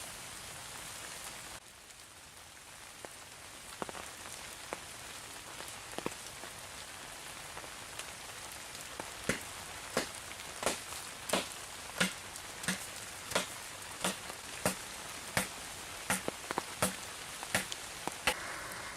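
Steady rain-like hiss, with a run of sharp, evenly spaced knocks, about three every two seconds, beginning about halfway through.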